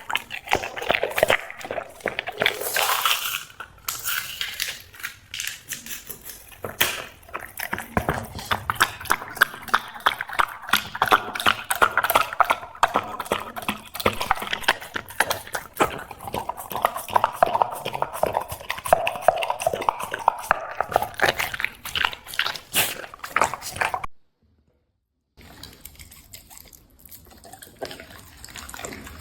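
A dog eating: a dense run of quick, wet chewing and smacking clicks. The sound breaks off about two thirds of the way through for a second of silence, then goes on more quietly.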